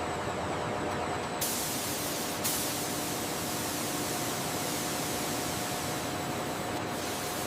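Steady hissing noise with a faint hum underneath; the hiss turns brighter and sharper about a second and a half in.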